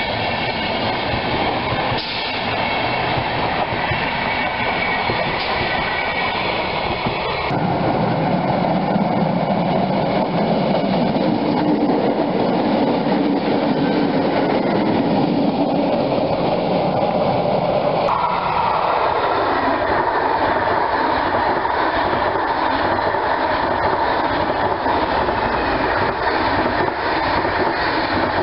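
Passenger trains passing at speed, their wheels running and clattering over the rails, in several clips joined with abrupt cuts: first a DB Intercity coach train, then a red DB class 628 diesel railcar, then a long locomotive-hauled coach train.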